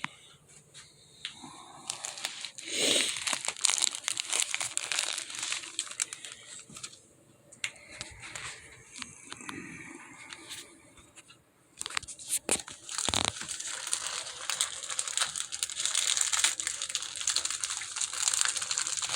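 Paper gift wrapping crinkling and tearing as a present is unwrapped, in bursts, easing off around the middle, then crinkling steadily through the last third.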